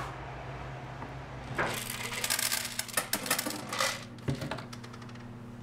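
A burst of rapid clicking and clattering, like small hard objects rattling, starting about a second and a half in and lasting about two and a half seconds, ending with a sharper knock. A steady low hum runs underneath throughout.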